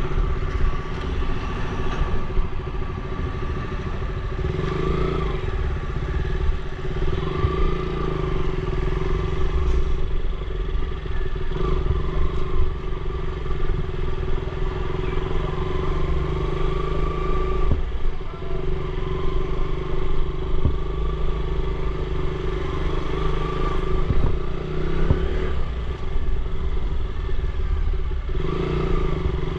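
Motorcycle engine running at a fairly steady pitch while riding, over a constant low rumble.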